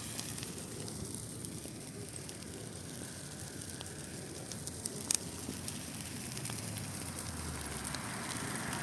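Large bonfire of dry Christmas trees burning, a steady rush with crackling and one sharp pop about five seconds in.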